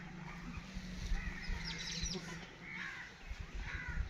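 Birds calling: harsh arched calls about a second in and again near the three-second mark, with a run of quick high chirps between them, over scattered faint low thuds.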